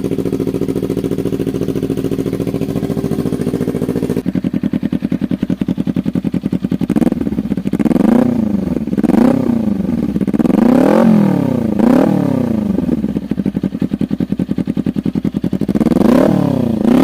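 Kawasaki Ninja 250 FI parallel-twin engine with an imitation Austin Racing aftermarket exhaust, idling steadily. From about seven seconds in it is revved in a string of quick throttle blips, each rising and falling sharply in pitch.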